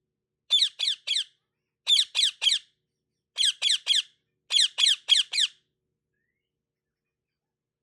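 Pet parrot making kissing sounds: short, high, sharp squeaks in quick runs of about three, four runs in a row, stopping about five and a half seconds in.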